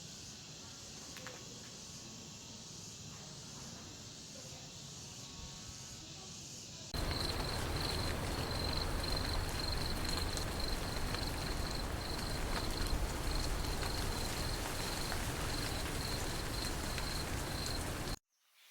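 Outdoor ambience with an insect chirping in short, evenly repeated high-pitched pulses over a steady background hiss. It sets in abruptly after a quieter stretch of faint hiss, and cuts off suddenly near the end.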